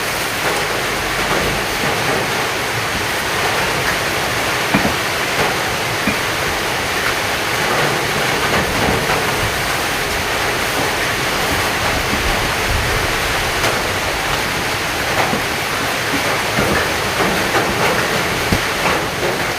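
Heavy rain falling steadily, a dense even hiss, with scattered louder drops ticking close by.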